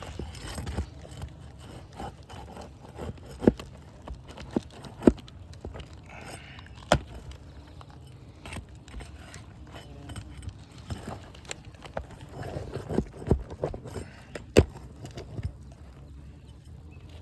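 Sharp irregular metal clicks and knocks with scraping and crackling, as roofing nails are worked out from under lifted asphalt shingles, breaking their tar seal.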